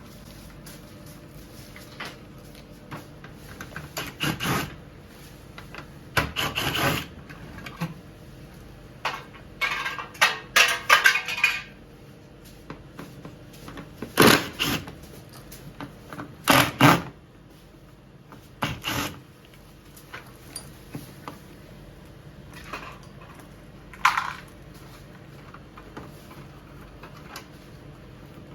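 Irregular knocks, clatter and scraping of hard parts being handled, in short spells separated by pauses, with the sharpest clacks about halfway through.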